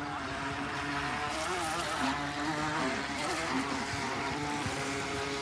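Motorboat engine running, its pitch wavering up and down, over a steady hiss.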